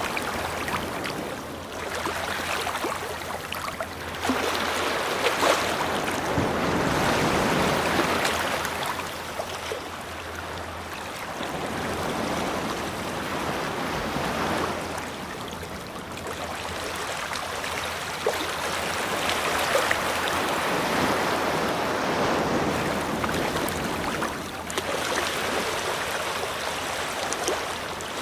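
Ocean waves washing onto a beach, the surf swelling and easing every few seconds.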